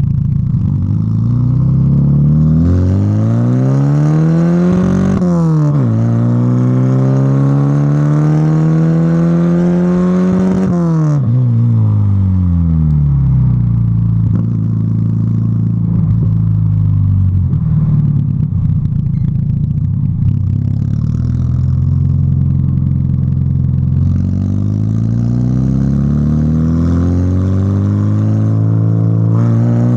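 Volkswagen Golf Mk3 running without its catalytic converter and middle muffler, through a sport rear muffler, accelerating through the gears: the engine note climbs, drops at an upshift about five seconds in, climbs again, then falls away as the car slows, and rises once more near the end.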